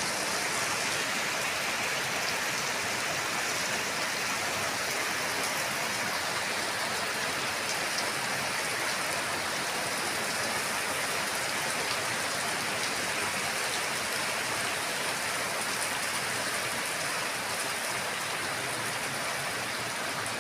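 Steady rain falling, an even hiss with the patter of drops hitting surfaces.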